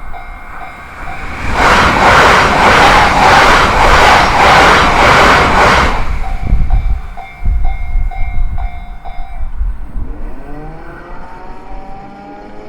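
A Yamagata Shinkansen train rushes through a level crossing. Its wheels clatter in a quick, even rhythm for about four seconds. The crossing's warning bell rings about twice a second before and after the pass, and a rising whine starts near the end.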